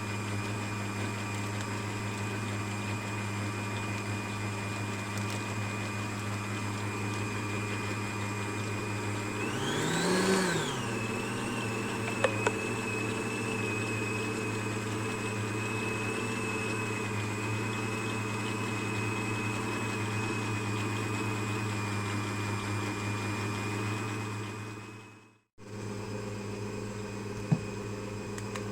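Electric mixer running steadily, beating sponge cake batter, with its whine briefly rising and falling about ten seconds in as the speed changes. Near the end the sound cuts off and a quieter motor hum with a couple of clicks takes over.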